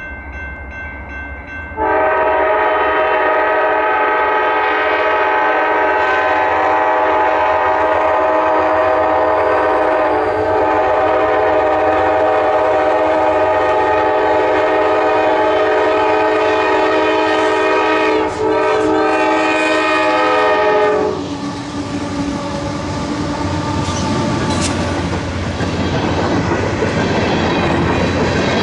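CSX freight locomotive's multi-chime air horn sounding for a grade crossing. It starts about two seconds in and is held almost without a break for close to twenty seconds, then stops. Afterwards the locomotives and loaded coal hopper cars rumble past, wheels clacking over the rail joints.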